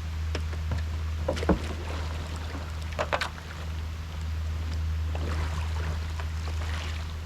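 Water splashing and sloshing around a kayak, with sharp splashes about a second and a half and three seconds in, over a steady low rumble.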